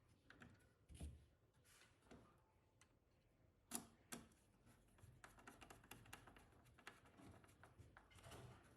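Faint scattered clicks and taps, two sharper ones about four seconds in, then a run of rapid fine ticking for a few seconds.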